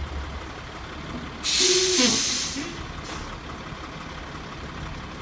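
Truck air brakes letting out a loud hiss of about a second, with a brief squeal in it, then a short second hiss, over a truck's steady low running noise.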